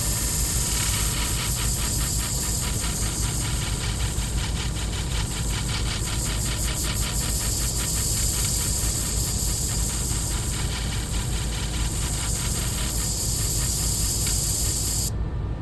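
Hamagari flat-hone sharpening machine running, its motor humming steadily under a high hiss, with a fast, even scraping tick as a shear blade is honed against the spinning abrasive plate. The hiss cuts off abruptly near the end.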